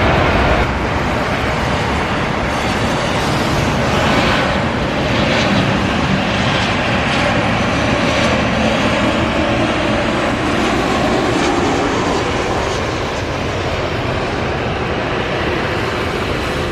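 Jet airliner engines, a loud steady rushing noise that eases slightly over the last few seconds.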